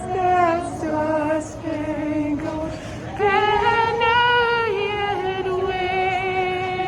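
A woman's singing voice, with music, holding long notes with vibrato; a higher held note starts about three seconds in.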